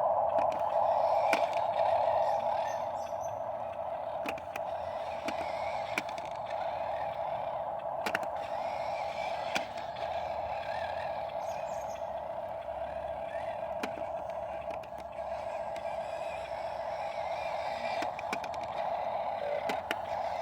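Huina 1573 RC dump truck's electric drive motor running with a steady whine, louder for the first two seconds and then easing off, with scattered clicks and knocks from the model working over gravel.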